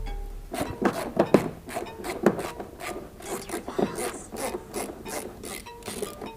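Hand tools working on a car engine: irregular metallic clicks, knocks and scraping, with a few sharper knocks about a second in and again a little after two seconds.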